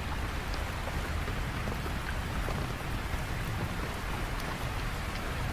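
Steady rain falling, with scattered drop impacts and a continuous low rumble underneath.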